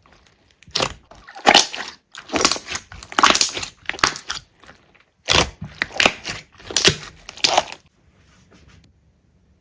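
Hands squeezing and pressing a large slime: clusters of short, sharp squishing sounds that stop about eight seconds in.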